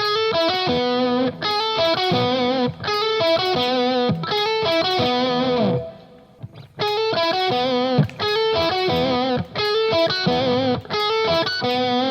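Electric guitar played through an EarthQuaker Devices Palisades V2 overdrive pedal on gain A with its bright switch on: a phrase of held, overdriven notes, played twice with a short pause about six seconds in.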